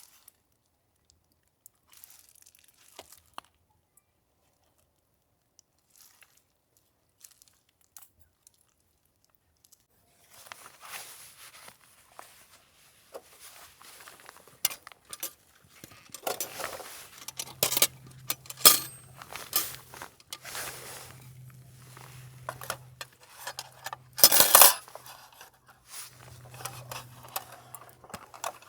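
Handling sounds at close range: scattered faint ticks, then from about ten seconds in, crinkling and tearing of packaging mixed with sharp clicks and clinks of cookware. A low hum comes and goes in the second half.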